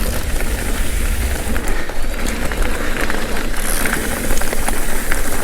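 Mountain bike riding along a dirt trail: tyres rolling over the ground and the bike rattling with many small clicks, under a steady low rumble of wind buffeting the microphone.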